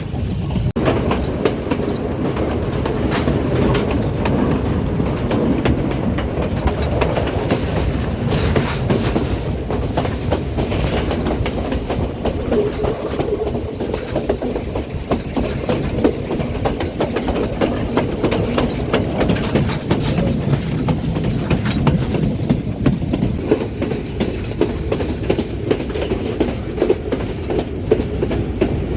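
Passenger train in motion: a steady rumble of the carriages with a continuous clatter of wheels over rail joints.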